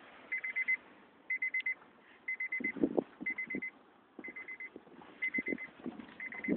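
Car's warning chime beeping with the driver's door open and the engine off: quick bursts of about five high beeps, repeating about once a second. A few low thumps or crunches come in around the middle.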